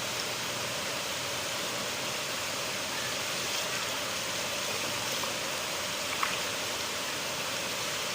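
River water flowing, a steady even rushing with a brief sharp tick about six seconds in.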